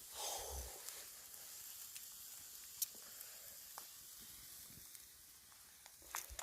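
Wood fire burning in a campfire pit: a faint steady hiss with a few sharp crackles, and a soft thump near the start.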